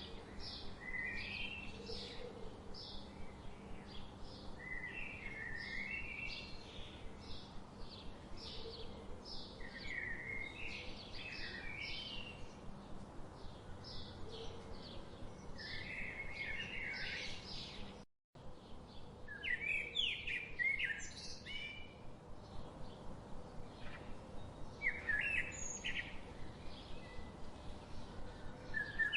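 Birds chirping: a steady stream of short, quick high chirps with bursts of twittering notes. The sound cuts out completely for a moment about two-thirds of the way through, then resumes.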